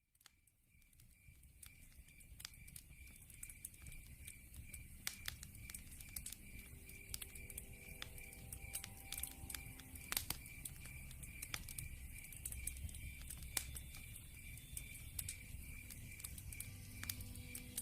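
Log fire burning in a fireplace, crackling with irregular sharp pops over a low rumble, fading in from silence at the start. Behind it a cricket chirps steadily, a high pulse about twice a second.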